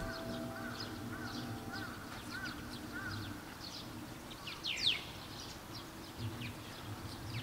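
Small birds chirping in short, quickly falling notes, a little louder about five seconds in. Faint held tones of background music fade out over the first few seconds.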